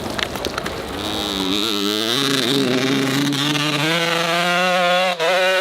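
Hill-climb dirt bike engine revving under load, its pitch climbing unevenly and then held high and steady, with a brief dip near the end.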